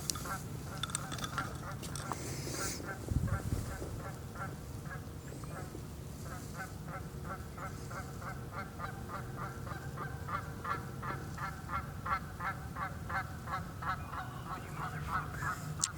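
Geese honking: a long run of short, repeated calls, coming faster and more steadily through the second half. A brief low rumble about three seconds in.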